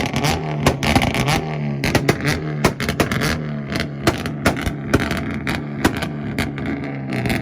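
Hyundai Veloster engine held on its two-step launch limiter: a steady, high-revving engine note with a rapid, irregular string of exhaust pops and bangs. The note fades away just after the end.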